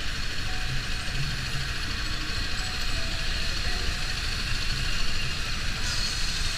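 Street traffic heard on the move: vehicle engines running under a steady rushing noise with a fluctuating low rumble, typical of wind buffeting the microphone while riding.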